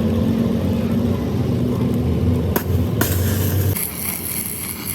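A machine motor running with a steady low hum, which cuts off just under four seconds in. About three seconds in, after two sharp clicks, a high hiss starts.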